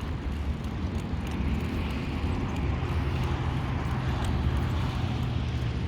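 Steady low rumble of road traffic, with a steady engine drone joining about three seconds in.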